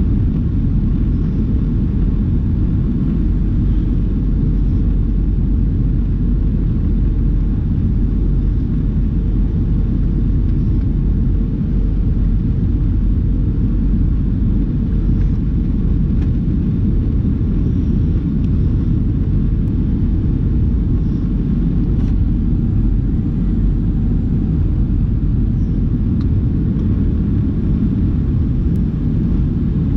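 Steady low rumble of an Airbus A319 in flight, its engine and airflow noise heard inside the cabin at a window seat.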